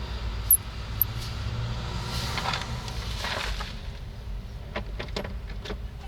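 Metal hand tools being handled while a socket is fitted onto a wrench: two sharp metallic clinks about half a second and a second in, a rustle of rummaging, then a quick run of clicks near the end, over a steady low rumble.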